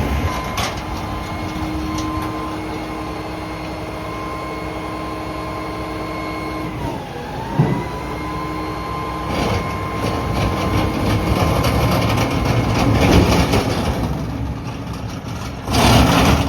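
Mack MRU garbage truck with a McNeilus front-loader body running, with a steady whine from its engine and hydraulics. About seven seconds in the whine dips in pitch and comes back, with a short thud. Rushes of noise follow, the loudest near the end.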